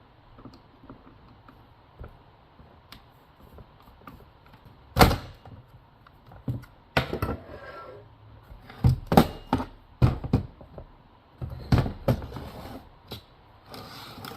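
Knocks, clicks and clatter of a chainsaw's plastic housing parts being handled and set down during disassembly. There is one sharp thunk about five seconds in, then a run of knocks from about seven seconds onward.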